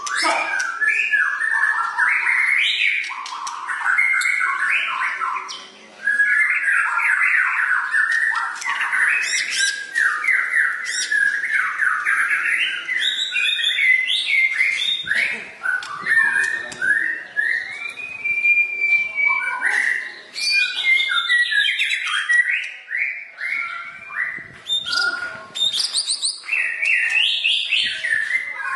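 White-rumped shama (murai batu) singing continuously: a rapid, varied run of whistled phrases, quick trills and chattering notes with hardly a pause, including a longer held whistle about two-thirds of the way through.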